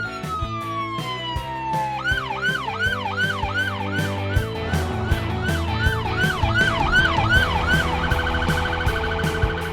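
Police car siren over background music with a drumbeat: a falling tone winding down for the first couple of seconds, then a fast up-and-down yelp about three times a second, switching about eight seconds in to a rapid warble.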